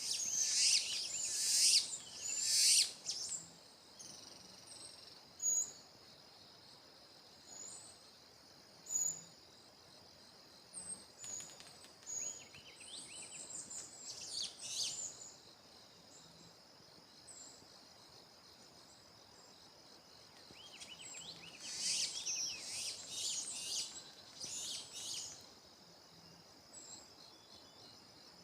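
Wild songbirds singing in short warbling bursts, at the start, midway and again near the end, with single high chirps in between, over a steady high-pitched insect drone.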